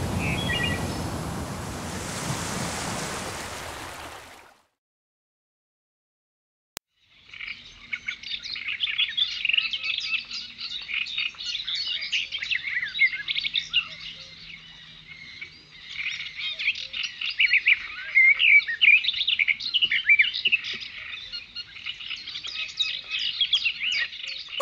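Music fades out over the first four seconds. After a short silence and a click, a dense chorus of many birds chirping and tweeting starts about seven seconds in and runs on, the quick calls crowding over one another.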